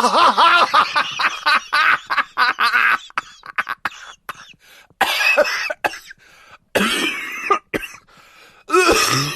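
Laughter sound effect: a person laughing hard in a fast, wavering run for about three seconds. Then come choppy bits and three separate breathy, cough-like bursts of laughter with short pauses between.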